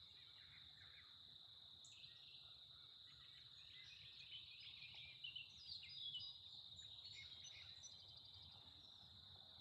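Faint outdoor chorus: a steady high insect trill with birds chirping over it, a few louder chirps about five to six seconds in.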